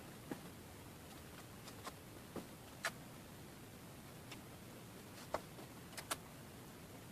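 Faint, scattered light clicks and taps, about seven in all at irregular intervals, over a low steady hiss: small objects being handled.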